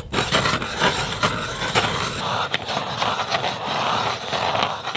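Hand-cranked ice auger cutting through lake ice: a continuous, crunching scrape of the blades shaving ice as it is turned.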